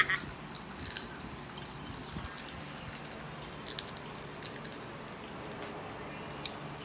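Faint scattered crinkles and clicks from a foil candy wrapper being handled while eating.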